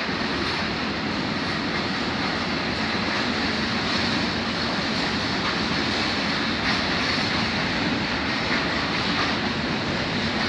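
Freight train rolling past at a steady speed, a continuous noise of its wagons' wheels on the rails.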